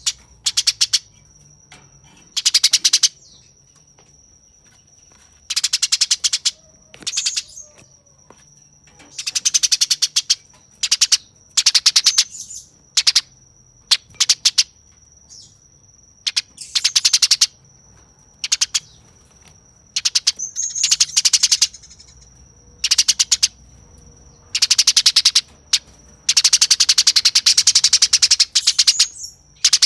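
Eurasian tree sparrow giving harsh, very rapid chattering calls in repeated bursts, the fast 'nyerecet' chatter of an agitated, fighting sparrow. A steady high thin tone runs underneath.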